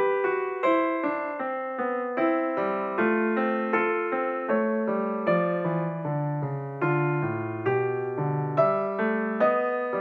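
Background piano music: a slow, gentle melody of single struck notes, each dying away before the next.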